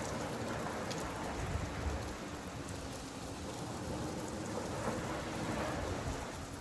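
Steady rain falling, its hiss swelling and easing, with a low rumble underneath that is strongest about two seconds in.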